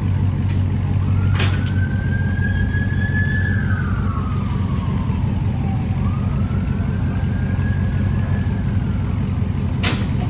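Dodge Charger 392 Daytona's 6.4-litre HEMI V8 idling steadily through a straight-piped exhaust, mid mufflers and resonators deleted with only the cats left. A siren wails faintly behind it, rising and falling slowly.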